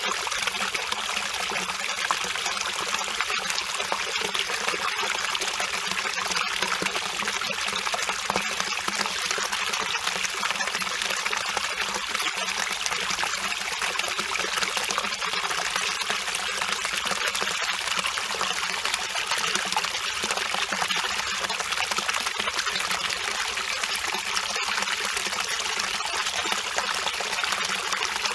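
Mountain valley stream flowing, a steady, even babble of water.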